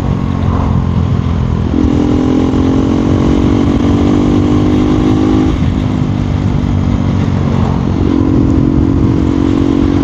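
KTM Duke 390 Gen 3's single-cylinder engine running under way on the road, its note holding steady and shifting in pitch a few times as the rider changes speed. A low rush of road and wind noise runs underneath.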